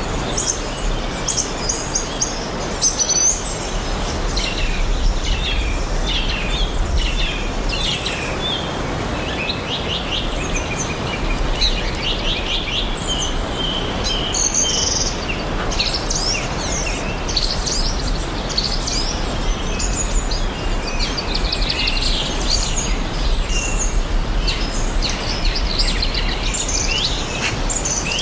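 Several songbirds chirping and trilling in quick, overlapping phrases, over a steady outdoor hiss with a low rumble underneath.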